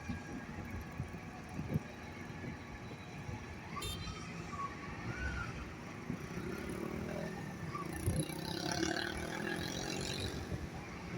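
Waterfront background of a steady low engine rumble, with faint voices and a short wavering whistle-like tone about four seconds in.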